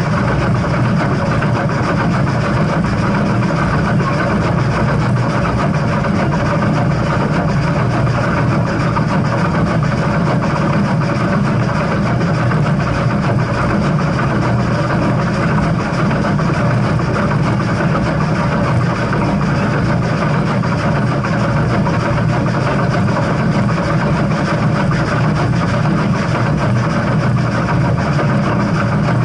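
Steam-hauled heritage train running: a loud, steady low rumble with no separate chuffs or whistle.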